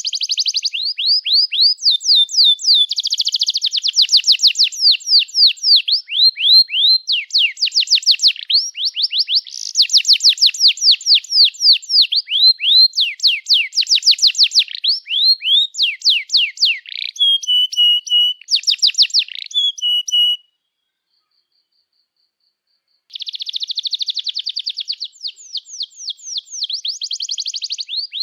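Domestic canary singing a long, fast song: rapid trills of repeated downward-sweeping notes, with a few held whistled notes past the middle. The song breaks off for about two and a half seconds, then resumes with more trills.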